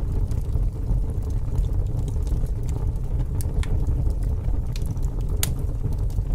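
Fire crackling: a steady low rumble with scattered sharp pops and crackles, the loudest pop about five and a half seconds in.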